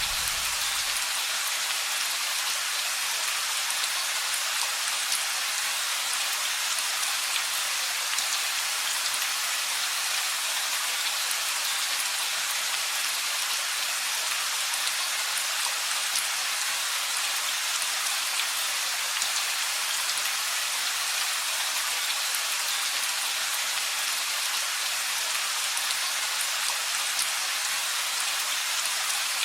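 Steady rain falling: an even hiss of drops with fine ticks of single drops hitting a surface. A low rumble dies away about a second in.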